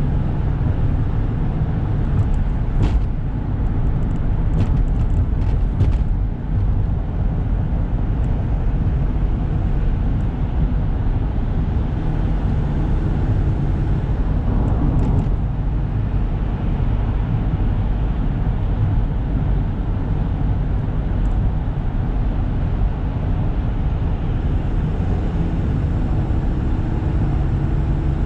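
Interior sound of a Toyota Granvia van on the move: its 1KZ-TE 3-litre turbo diesel engine running under steady road noise, with a few short clicks about three to six seconds in and a brief swell near the middle.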